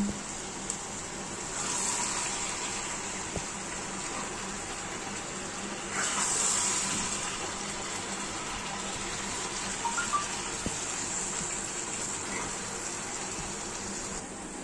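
Chicken, onions and masala sizzling in oil in a pan over a gas flame as a ladle turns them: a steady hiss that swells about two seconds in and again around six seconds, with a few faint ladle clicks later on.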